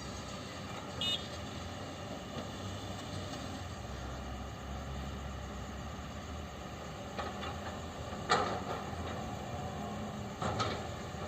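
Heavy truck engine running steadily with a low rumble, with a brief high squeak about a second in and two sharp knocks later on.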